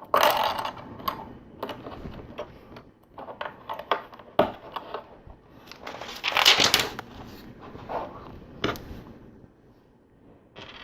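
Small plastic LEGO pieces clicking and rattling as they are handled and pressed together, with a louder, denser rattle about six seconds in.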